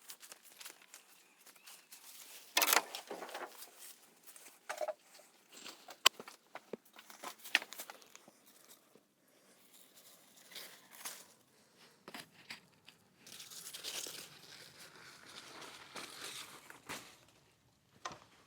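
Crinkling, rustling handling noise with scattered sharp clicks and taps, loudest about two and a half seconds in and again as a longer rustle past the middle.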